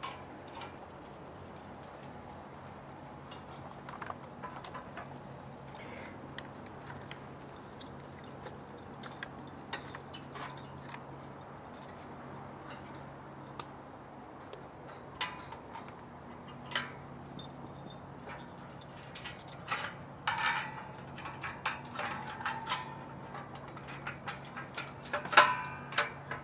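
Scattered metallic clinks and taps of bolts, washers and nuts being fitted by hand to a steel power rack. They are sparse at first and come thicker in the last ten seconds, over a faint steady hum.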